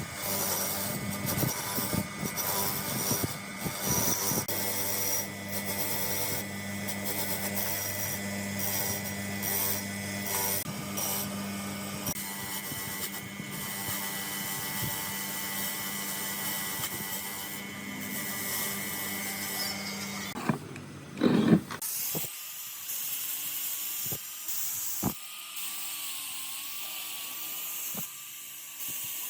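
An electric power tool runs steadily against rusty metal, its motor hum under scraping and clicking. It stops about 20 seconds in, a short loud clatter follows, and then come quieter knocks of parts being handled.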